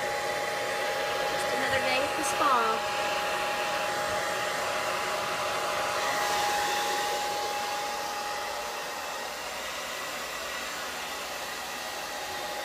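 Hair dryer blowing steadily with a thin steady whine, with a short call falling in pitch about two seconds in.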